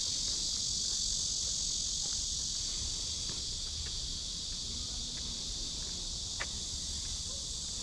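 Cicadas singing in a steady, unbroken high-pitched chorus, with a faint click about six seconds in.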